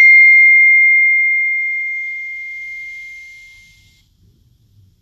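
A single bell-like ringing tone, struck once, clear and high-pitched, fading away over about four seconds.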